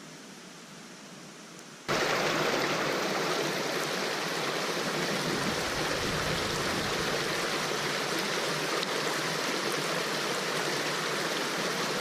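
Faint hiss, then about two seconds in a sudden switch to the loud, steady rush of a flowing mountain creek.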